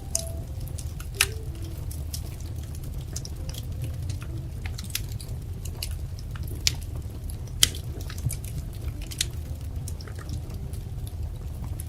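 Wood fire crackling: irregular sharp pops and snaps over a low, steady rumble of burning logs, with a louder pop about a second in and another about two-thirds of the way through.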